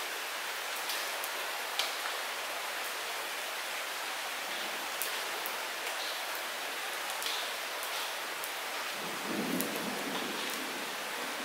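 Light rain falling steadily: an even hiss with separate drops ticking close by now and then. A brief low rumble swells near the end.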